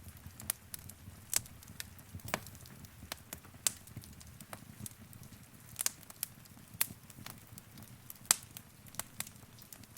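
Wood fire crackling in a fireplace: irregular sharp pops and snaps over a soft low rumble of flame, the loudest pop about eight seconds in.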